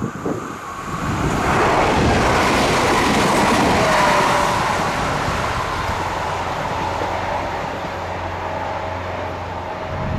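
A TER multiple-unit train passing close on the line and running away into the distance: a rush of wheel and rail noise that swells from about a second in, is loudest around two to four seconds, then slowly fades, with a whine that drops in pitch as the train goes by.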